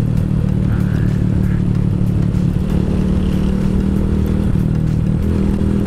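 Keeway CR152's single-cylinder engine running steadily at road speed, with wind rush over the microphone. The engine note shifts a little about five seconds in.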